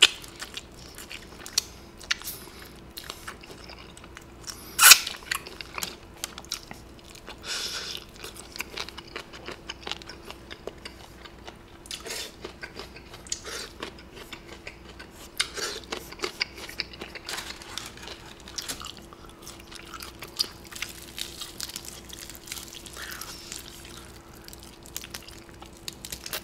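Close-miked chewing and biting of crispy fried chicken: many small crunches and wet chewing clicks, with one louder sharp crack about five seconds in. A faint steady hum sits underneath.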